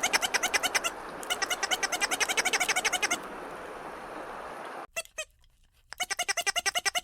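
Rapid series of short high-pitched animal calls, about ten a second, in bursts. They break off abruptly near five seconds and start again about a second later.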